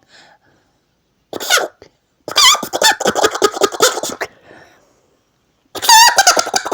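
A man imitating a hen's cackle after laying an egg by blowing on a leaf: a short squeal, then two runs of rapid, high, stuttering notes. The player himself says it did not come out well because the leaf was poor.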